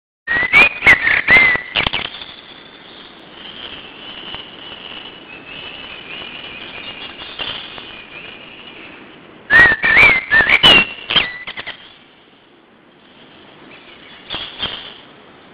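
Songbirds singing. Two loud bursts of whistled, gliding notes mixed with sharp clicks come at the start and again about ten seconds in, with softer continuous twittering between them.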